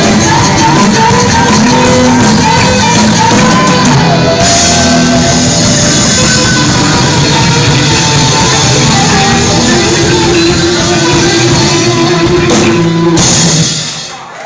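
Live rock and roll band playing loud, with drum kit, electric guitars and shouted singing, at the close of the song. A cymbal crash comes about a third of the way in and another near the end, and then the band stops abruptly just before the end.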